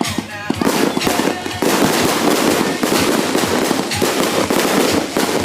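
Fireworks going off: a dense, continuous crackling with sharp bangs mixed in, thickening and getting louder about one and a half seconds in.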